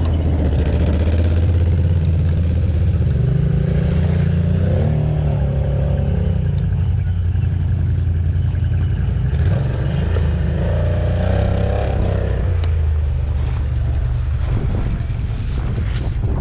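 Off-road vehicle engine running under load, revving up and easing off twice, about four and about eleven seconds in.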